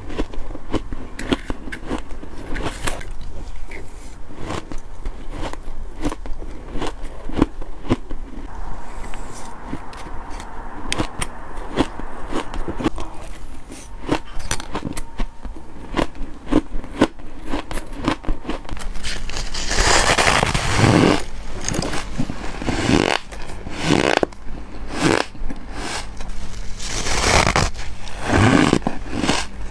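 Close-miked biting and chewing of fluffy freezer frost: a steady run of crisp crunches, becoming louder and longer from about two-thirds of the way through.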